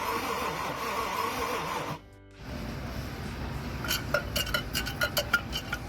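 A steady humming tone with a slight waver, cut off by a brief break about two seconds in, followed by a run of light metallic clinks and taps, several a second.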